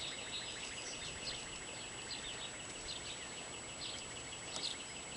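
Birds chirping in short repeated calls over a low background hiss, with a faint steady high-pitched tone throughout.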